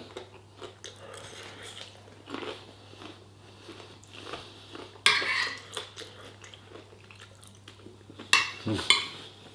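Someone eating: cutlery clinking against a plate and chewing, with one louder, sharper clatter about five seconds in.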